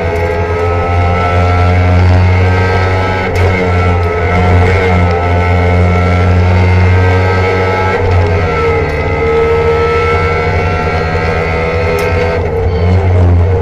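Trabant 601's two-cylinder two-stroke engine running steadily, its pitch rising and falling slightly a few times.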